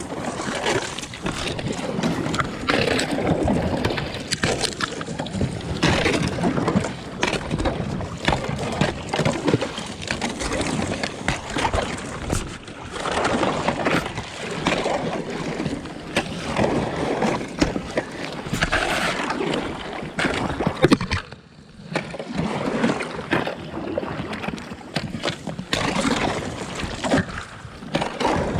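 Alpacka packraft and paddle breaking through thin lake ice: an irregular run of crunching and cracking ice with water sloshing at each paddle stroke, briefly quieter about three quarters of the way through.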